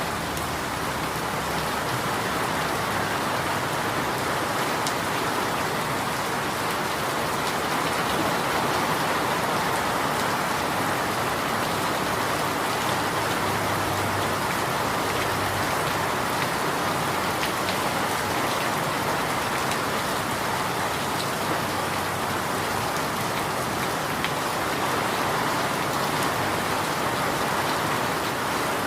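Steady rain falling and pattering on a surface, an even continuous hiss with faint scattered drop ticks.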